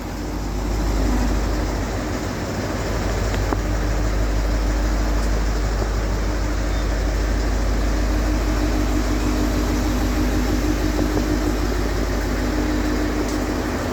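Diesel railcar train idling at the platform: a steady engine drone with a low hum and a held tone.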